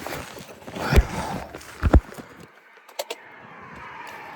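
Two heavy thumps about a second apart inside a car, then a couple of light clicks, followed by a steady rising noise of a vehicle in the background.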